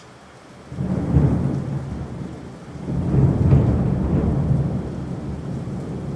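Rolling thunder over steady rain: a loud low rumble breaks in about a second in, eases, then swells again about three seconds in and slowly dies away.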